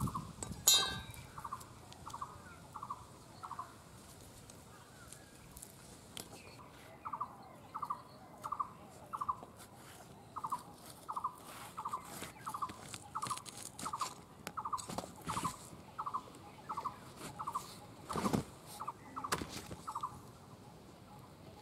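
A bird calling a steady run of short notes, about two a second, that stops for a few seconds after the start and then carries on. A sharp click about a second in and two knocks near the end come from a knife scraping roasted drumstick pods on a banana leaf.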